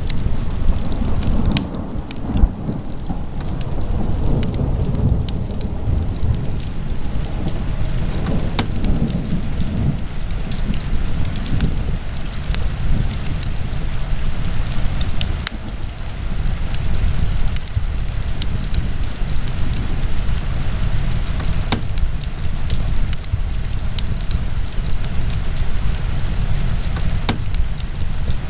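Wood fire burning in a fireplace: a steady low rumble of flames with scattered sharp crackles and pops, one louder pop about two and a half seconds in.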